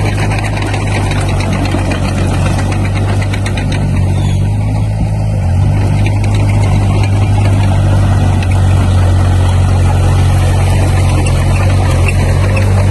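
Komatsu D20P bulldozer's diesel engine running steadily, with a rapid ticking through the first few seconds. The engine note shifts slightly about five and a half seconds in.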